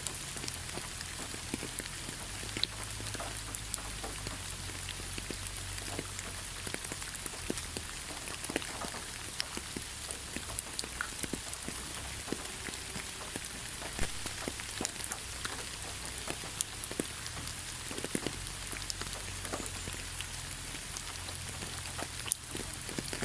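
Steady rain falling in a forest: an even hiss with many separate drops ticking irregularly.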